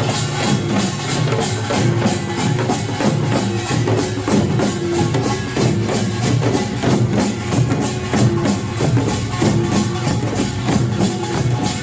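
Korean pungmul percussion band playing at a fast, steady beat: kkwaenggwari small gongs clanging over janggu hourglass drums and buk barrel drums.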